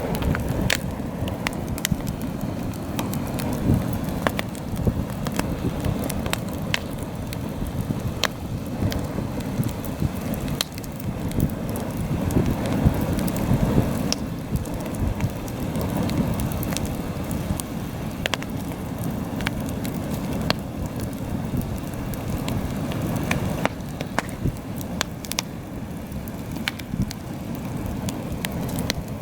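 Wood campfire crackling with frequent sharp pops and snaps. Heavy wind buffets the microphone underneath it in a low, surging rumble.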